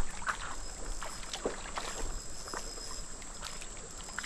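Creek water splashing and sloshing in short, irregular bursts, with a steady high insect drone underneath.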